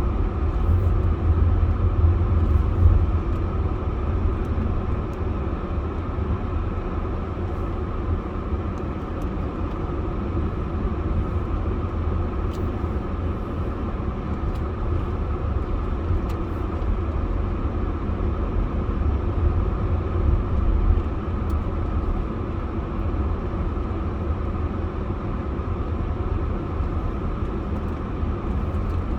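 A car driving along at a steady pace: continuous low road and engine rumble, unchanging throughout.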